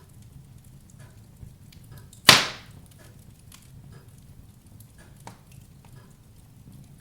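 Wood fire burning in a fireplace, with a low steady hiss and scattered small crackles. One loud, sharp pop comes a little over two seconds in.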